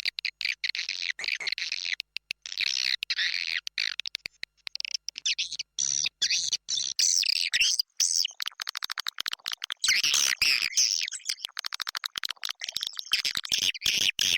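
Recorded calls of edible-nest swiftlets: dense, rapid clicking and buzzy twittering with no pause. This is a lure call of the 'inap' (roosting) type, played in swiftlet houses to draw the birds in to roost.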